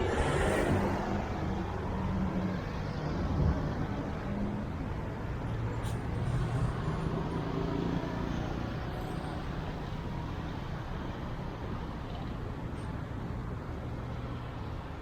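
Street traffic: vehicle engines passing on the road, over a steady wash of traffic noise, loudest in the first few seconds.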